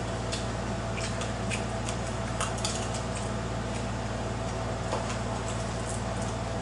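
Eating and food handling: scattered light clicks and taps of utensils against plates and food containers, with soft squishy sounds, over a steady low background hum. The clicks come mostly in the first three seconds, with one more near five seconds in.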